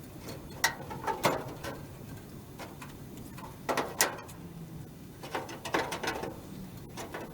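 Irregular knocks and scrapes of a replacement steel floor panel being worked into place in a Classic Mini's body shell, with a few sharper knocks and a busier cluster of them near the end.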